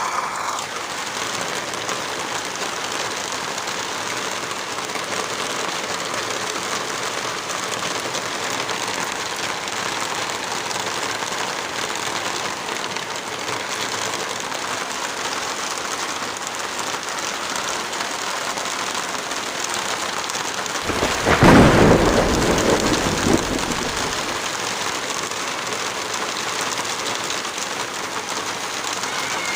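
Steady rain. About two-thirds of the way through, a clap of thunder breaks and rumbles away over a few seconds; it is the loudest sound here.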